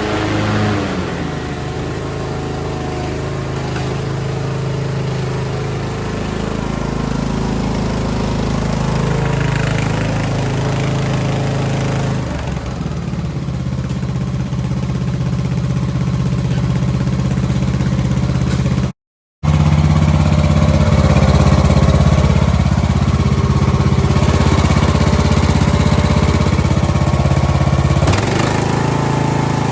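Craftsman YTS3000 lawn tractor's 21 hp two-cylinder Briggs & Stratton engine running steadily, its speed shifting a few times, with a brief break in the sound about two-thirds of the way through.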